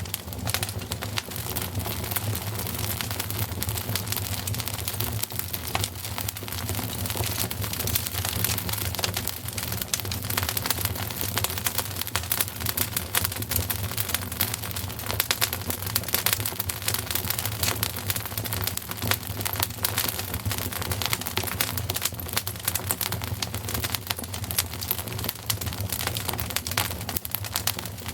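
Wood fire crackling steadily, a dense run of quick pops and snaps over a steady low rumble.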